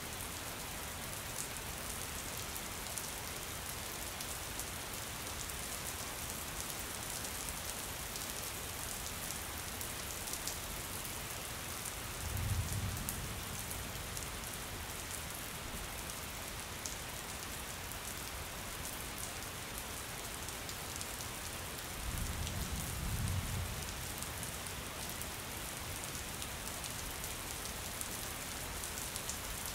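Steady rain, a dense even hiss of falling drops, with two brief low rumbles of thunder partway through, the second longer than the first.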